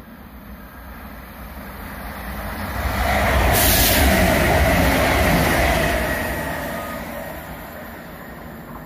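Chiltern Railways diesel multiple unit passing along the line: engine and wheel rumble grow loud as it draws level, then fade away as it moves off.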